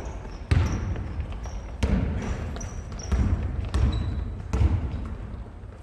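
A basketball bouncing on a hardwood gym floor in several irregularly spaced thuds during play.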